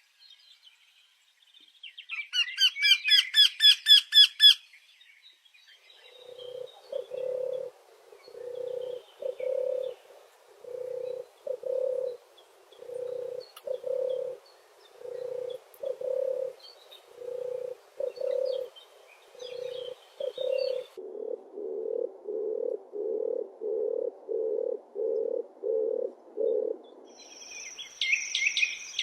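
Several bird calls in turn: a loud, rapid high trill that grows louder, then a long series of low hooting calls in pairs about once a second, which give way to a quicker run of low hoots; high chirping starts near the end.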